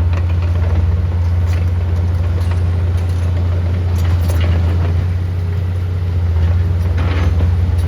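Heavy diesel engine of construction equipment running steadily in a deep, even drone, with a few light metallic clanks, the clearest about four and seven seconds in.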